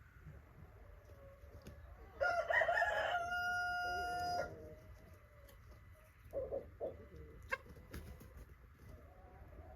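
A rooster crowing once, a long call that starts ragged and ends on a held note, followed a couple of seconds later by a few short clucks.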